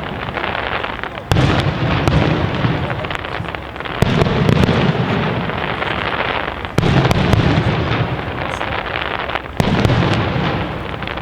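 Aerial fireworks shells bursting in a professional display: four sudden bangs, roughly evenly spaced, each trailing off in a long rolling rumble, with scattered crackles between.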